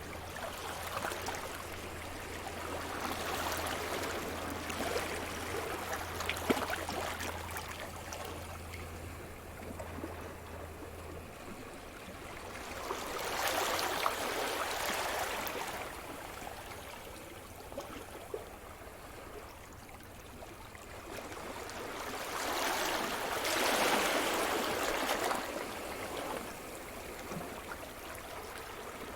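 Sea surf: waves breaking and washing ashore, swelling and fading three times about ten seconds apart.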